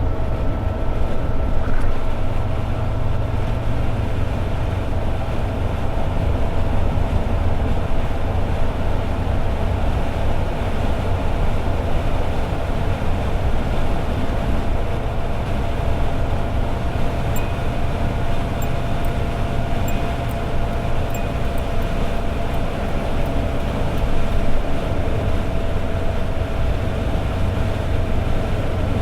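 Toyota AE86 Sprinter Trueno's 4A-GE four-cylinder engine holding a steady cruise, with a constant drone and road noise and no change in revs.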